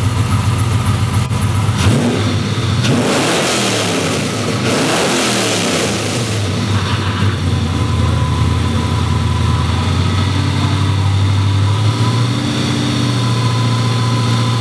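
Newly installed V8 in a Trans Am running on its first start-up, revved up and back down between about two and six seconds in, then settling to a steady idle.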